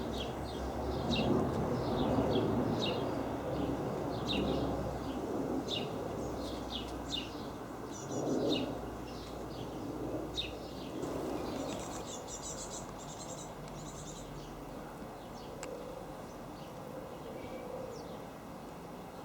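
Small songbirds chirping repeatedly, with a fast high trill about two-thirds of the way through, over a low rumble of a distant aircraft that slowly fades away.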